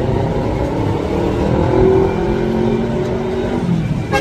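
Boeing 747 freighter's jet engines running loud: a steady rumble with held whining tones that dip slightly in pitch near the end.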